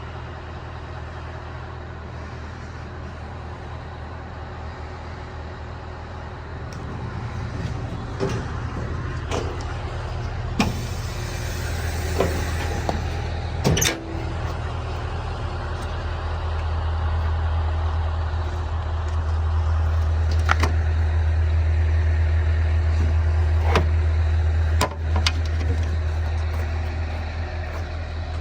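Scania R 500's V8 diesel idling with a steady low hum that grows louder about halfway through. Several sharp clicks and knocks and a brief hiss come over it.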